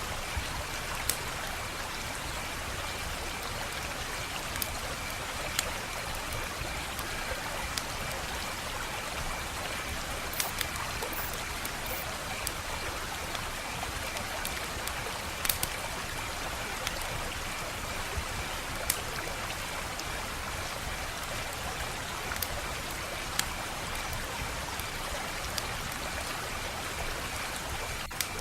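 Wood fire burning in a fireplace: a steady hiss with sharp crackling pops every few seconds. A faint pulsing high note sits behind it.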